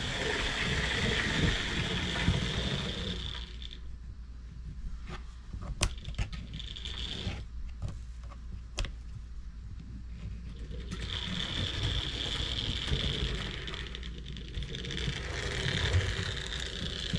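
Model train running along the track: the locomotive's small motor and gears whirr and the wheels rattle over the rails. It fades for several seconds with a few sharp clicks, then comes close and loud again.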